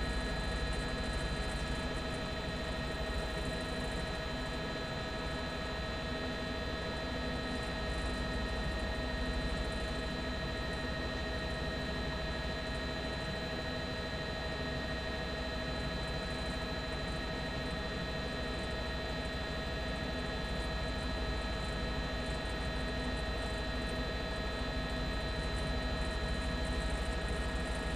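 Helicopter running steadily: a constant drone with several steady high whining tones.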